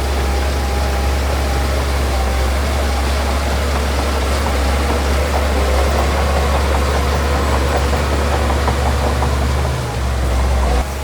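Heavy diesel earthmoving machine engine running steadily with a deep low hum and some light clatter, cutting off abruptly near the end.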